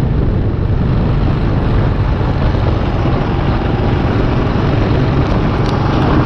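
Single-cylinder 650 dual-sport motorcycle engine running steadily while riding, mixed with a constant rush of wind noise.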